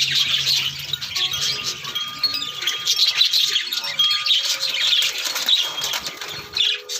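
A flock of parakeets chattering continuously in a busy stream of short chirps and warbles, with a few held ringing tones sounding through it.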